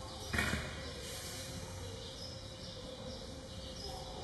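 Faint bird chirps repeating over a steady low hum, with one brief thump about half a second in.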